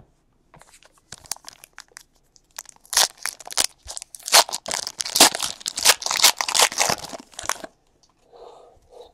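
Foil trading-card pack wrapper being torn open and crinkled by hand. Scattered rustles build to a dense run of crackling from about three seconds in, which stops shortly before the end.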